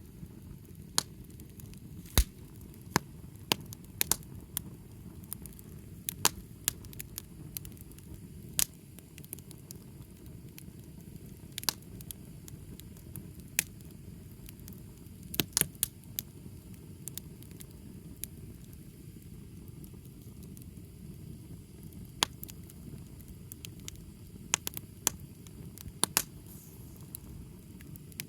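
Wood fire burning: sharp, irregular crackles and pops every second or two, now and then in quick clusters, over a steady low noise of the flames.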